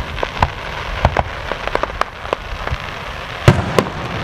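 Aerial fireworks shells bursting in a rapid, irregular series of sharp bangs and pops. The two loudest bangs come close together about three and a half seconds in.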